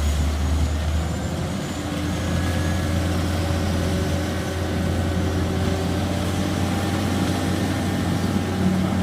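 Heavy vehicle engine running steadily with a low, even hum.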